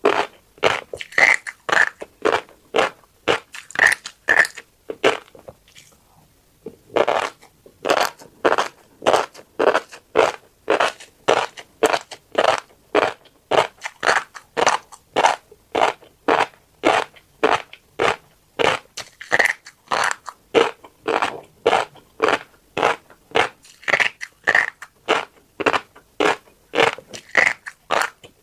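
Close-up chewing of a mouthful of tiny black seeds: crisp, crunchy chews at about two to three a second. There is a short pause about five seconds in before the chewing resumes.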